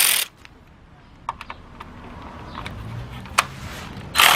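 Metal hand tools being handled, with scattered sharp clicks and clinks. There is a short rasping burst at the start and another near the end.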